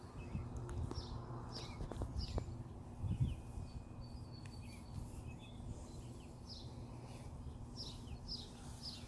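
Small birds chirping: a scatter of short, high, falling chirps every second or so, over a steady low hum.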